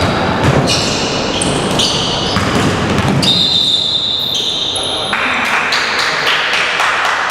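Basketball game sounds in a gym: the ball bouncing on the court among short high squeaks, with the echo of a large hall.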